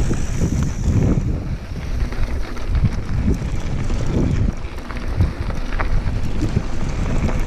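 Wind buffeting the microphone of a camera carried on a moving mountain bike, a loud steady rumble with scattered knocks and rattles from the trail.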